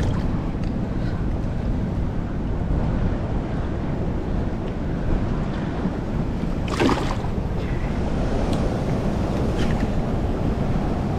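Steady low rushing of wind on the microphone and moving river water, with a brief swish about two-thirds of the way through.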